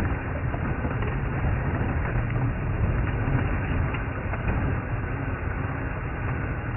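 Safari game-drive vehicle's engine running in low-range gear as it creeps slowly over rough ground: a steady low drone with a few faint knocks and rattles.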